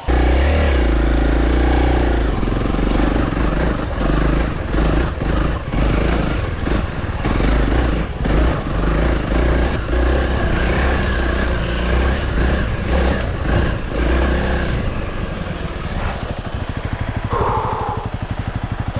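Honda CRF300L dirt bike's single-cylinder four-stroke engine revving hard and unevenly under load on a steep, rough off-road climb, with clatter from the bike over the ground. About fifteen seconds in it drops to a steady idle.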